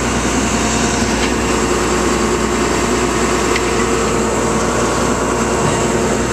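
Vehicle engine running steadily, heard from inside the cab: a continuous even hum with no changes.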